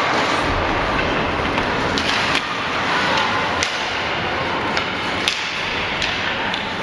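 Ice hockey play in a rink: steady rink noise with several sharp clacks of sticks striking the puck and each other, spread irregularly through a few seconds.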